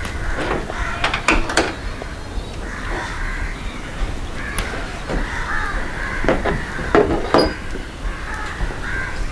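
Crows cawing again and again, with a few sharp clicks and knocks among the calls.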